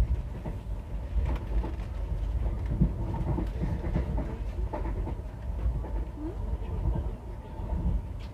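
Passenger train running, heard from inside the carriage: a steady low rumble with scattered clicks and knocks from the wheels and running gear.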